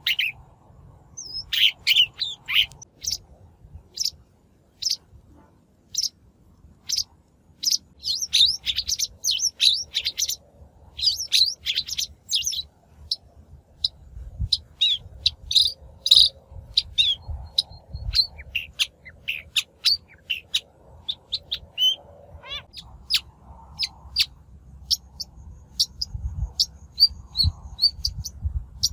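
A shrike calling in a rapid, irregular series of short harsh notes and chirps with quick pitch glides, a natural-voice lure recording of the kind used to draw wild shrikes in.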